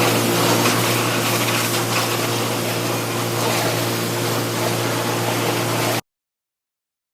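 Pressure washer running and spraying water: a steady motor-pump hum under a loud, even hiss of the jet. It cuts off abruptly about six seconds in.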